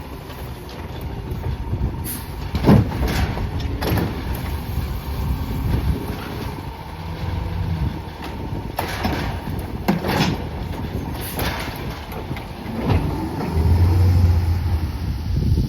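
2021 Peterbilt 520 CNG garbage truck with a Bridgeport automated side-loader body running, with several sharp metallic clanks and bangs spread through. Near the end its engine and hydraulics swell into a loud low drone for a couple of seconds.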